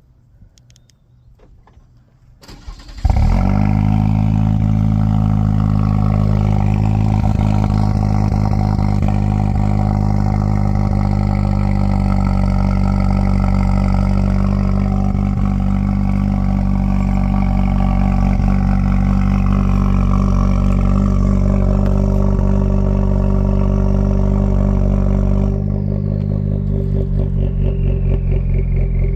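Chevy Silverado 1500's turbocharged 2.7-litre four-cylinder starting through a Black Widow Neighbor Hater muffler and factory resonator, catching about three seconds in with a loud flare and then idling with a deep, steady note. Near the end the idle drops a little and turns slightly uneven.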